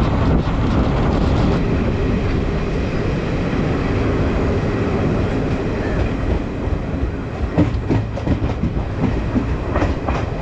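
Jan Shatabdi Express LHB passenger coach running at speed, heard from inside: a steady rumble of wheels on rail, with a run of clacks over rail joints in the last few seconds.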